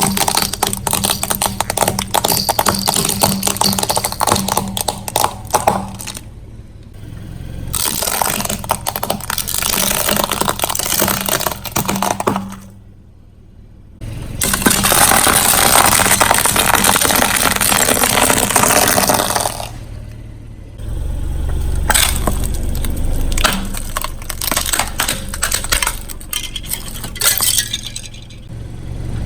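Car tyre rolling over and crushing brittle objects: a long run of cracking, crunching and clinking, with a short lull about halfway through. The car's engine hums low underneath for a couple of seconds about two thirds of the way in.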